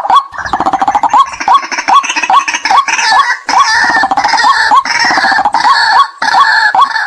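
White-breasted waterhen calls from a lure recording: a short call note repeated steadily, a little over two a second, with a dense, rough chorus of overlapping calls over it from about half a second in until near the end.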